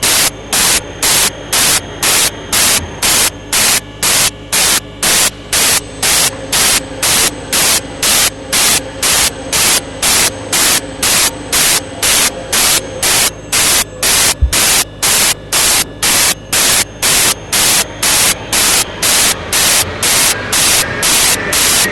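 Loud static hiss pulsing on and off in a steady rhythm, about twice a second, like electronic interference on the audio track. There is a single dull thump about two-thirds of the way through.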